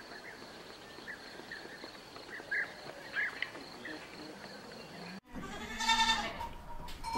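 A goat bleating once, a loud wavering call about five and a half seconds in, after a few seconds of faint background with scattered short chirps.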